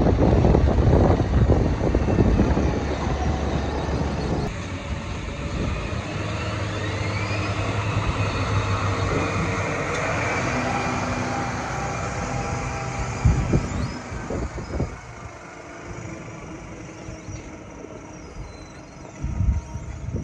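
John Deere 7330R tractor's diesel engine running steadily under ploughing work, with a heavy low rumble in the first few seconds. The sound eases off about three-quarters of the way through, and a few short thumps come near the end.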